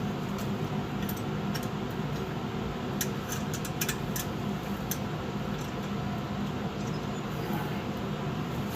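Steady mechanical hum, like a shop fan, running throughout, with light clicks and ticks of metal parts and hand tools being handled, bunched about three to four seconds in.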